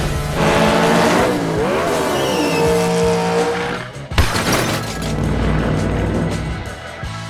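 Race-car engine revving and tyre squeal added as a sound effect to toy monster trucks, with the pitch gliding up and down and then holding, over background music. A sudden knock comes about four seconds in.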